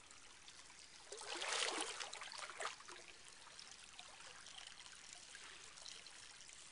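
Hot spring water trickling and flowing, swelling louder for about a second and a half starting about a second in.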